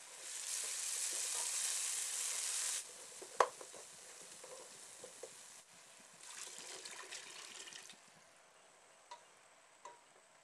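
Onion and spice masala sizzling in hot oil in a frying pan, which cuts off suddenly, followed by a single sharp knock. A second, shorter stretch of sizzling comes as hot water goes into the pan, then a few light taps of a wooden spoon stirring near the end.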